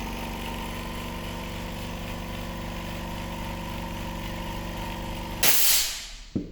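Vacuum leak tester's pump running steadily, then a loud burst of hissing air about five seconds in as the test chamber is vented back to atmosphere, followed by a sharp click.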